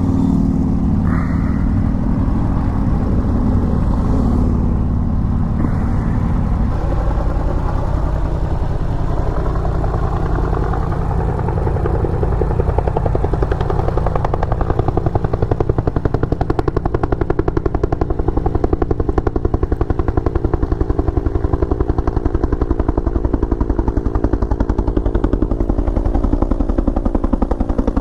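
Rescue helicopter's rotor chopping in a rapid, even beat, growing louder about halfway through as it comes in close to land. Underneath, the Yamaha MT-10 motorcycle's engine is idling.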